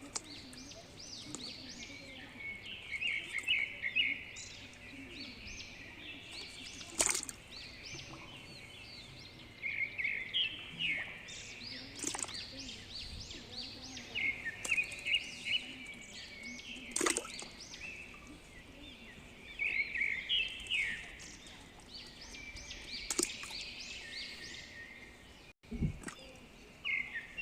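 Birds chirping in short, quick bursts every few seconds over steady outdoor background noise, with a few sharp clicks in between.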